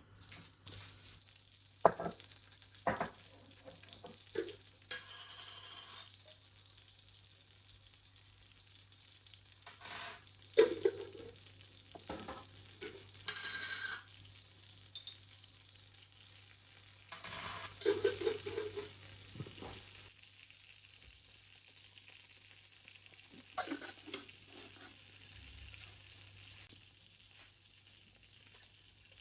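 Food sizzling as it fries in a pan, with a utensil stirring it and now and then knocking and scraping against the pan.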